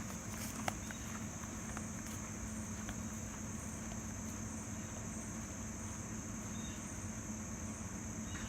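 Crickets chirping steadily, with a low steady hum underneath and a single faint tick under a second in.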